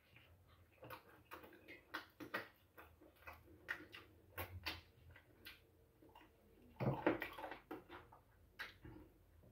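Close-up eating sounds: chewing and lip-smacking on meat, heard as an irregular scatter of quiet wet clicks and smacks, with a louder burst about seven seconds in.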